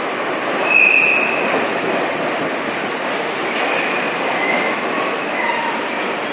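Z2N double-deck electric multiple unit on RER D running into an underground station: steady running noise of wheels on rails. A short, high wheel squeal about a second in is the loudest moment, and fainter brief squeals follow later.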